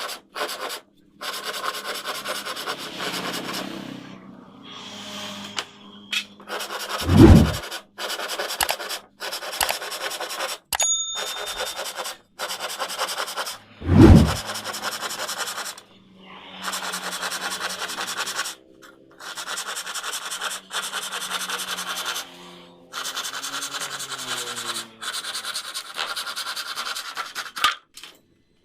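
Short cut-together stretches of rasping, rubbing noise, broken by two heavy low thumps and, between them, a brief ringing ding.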